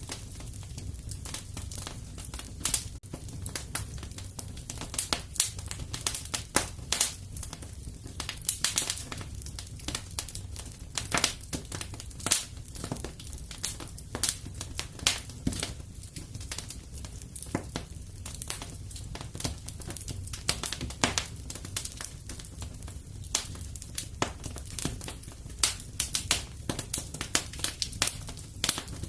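Fire burning in a fireplace, crackling and popping: many irregular sharp pops over a steady low rumble of flame.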